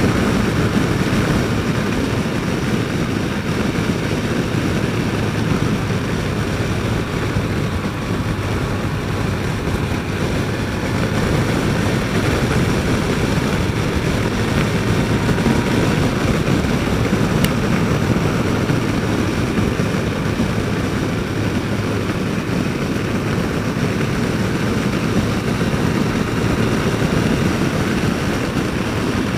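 Yamaha FJR1300 inline-four engine and wind rush while cruising at a steady speed, heard through a helmet-mounted microphone. The steady drone holds throughout with no change in pitch.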